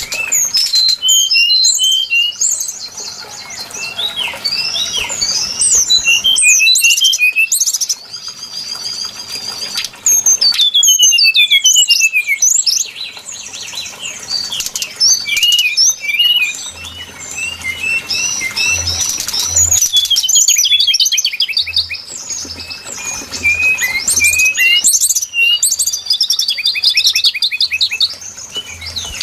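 Brown-chested jungle flycatcher song: fast phrases of varied high whistles, sweeps and trills, each a few seconds long and separated by short pauses.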